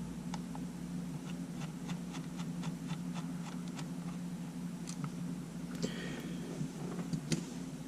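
Faint small clicks and ticks of a precision screwdriver working on the screws of a camera body's frame, with a brief scrape about six seconds in, over a steady electrical hum.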